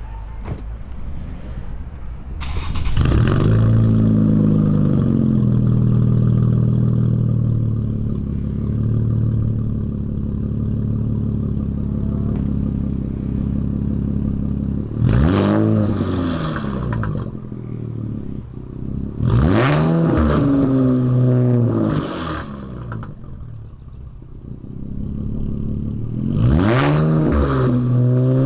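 Infiniti Q60's twin-turbo V6 exhaust, fitted with lower downpipes and a 2.5-inch catback without resonator deletes, running and being revved several times, the pitch rising and falling with each rev.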